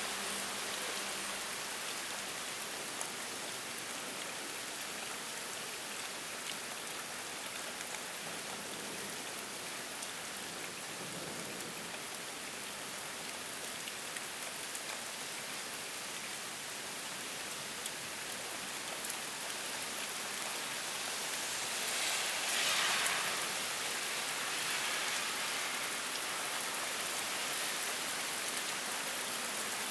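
Heavy rain pouring steadily in a cold-front downpour, with a brief louder swell about two-thirds of the way through.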